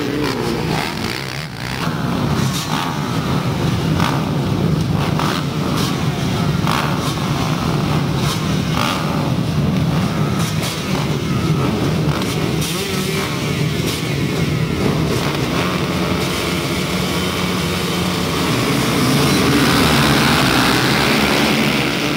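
Motocross bikes racing on a dirt track, engines revving up and dropping back as riders work the throttle through jumps and corners, getting louder about three-quarters of the way through.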